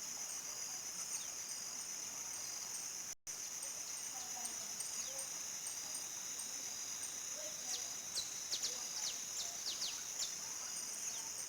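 Crickets chirping in a steady, high-pitched evening chorus, with a few short falling chirps near the end. The sound cuts out for a split second about three seconds in.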